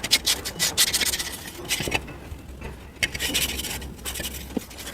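A scrubber rubbing back and forth on an earthen clay feed pot, scouring off dried bird droppings. The rasping strokes come quickly in the first two seconds, then slower and more spaced.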